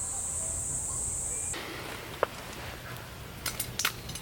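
Insects trilling in one steady high-pitched buzz that cuts off abruptly about a third of the way through. A few sharp taps or clicks follow over a soft background hiss, the first being the loudest.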